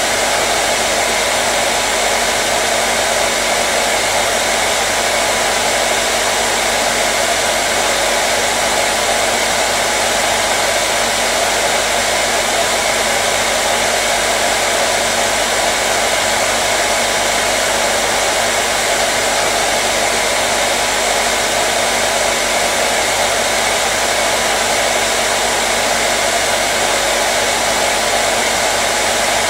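Hair dryer running continuously at a steady, unchanging blow, a constant rushing hiss with a faint steady hum underneath.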